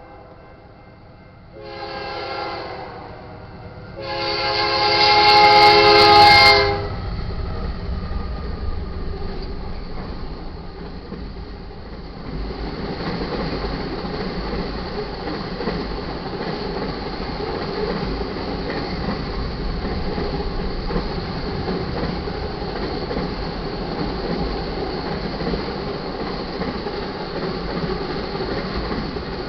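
BNSF freight train passing, hauled by GE AC44CW and Dash 9-44CW diesel locomotives. The lead locomotive's horn sounds a short blast, then a longer, louder one. The locomotives rumble by, followed by a steady rolling noise of auto rack cars on the rails.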